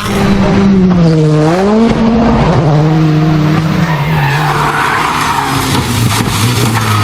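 Rally car engine at high revs. The revs dip about one and a half seconds in, climb again, then hold and slowly sag, over steady tyre and road noise.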